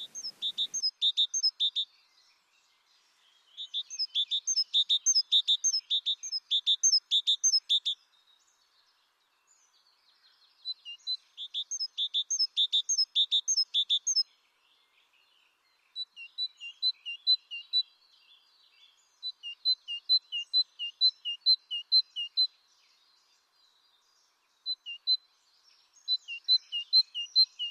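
Bird song: a small bird repeating short, high chirping notes in phrases of a few seconds each, about three notes a second, with short pauses between phrases. In the later phrases the notes alternate between two pitches.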